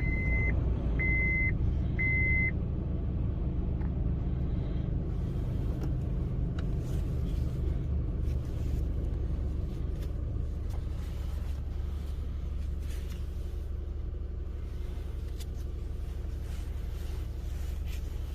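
1998 Mazda MPV's engine idling steadily just after a cold start, the idle easing slightly as it settles. A warning chime beeps a few times in the first couple of seconds, then stops.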